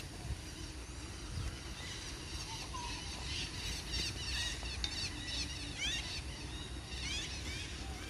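Birds chirping: many short high chirps and quick sweeping notes, thickest from about two seconds in, over a low rumble.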